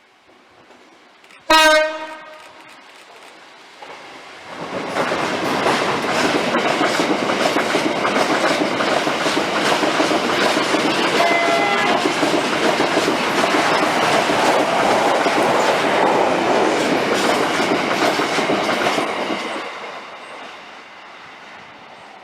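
A train gives one short horn blast, then passes for about fifteen seconds with a steady clatter of wheels over the rail joints, and dies away near the end.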